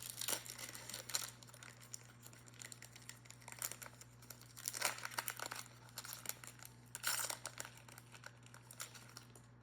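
Crinkling and rustling of trading-card packaging as cards are handled and sorted through, in irregular bursts: around the start, again about halfway through, and once more past the middle. A steady low hum runs underneath.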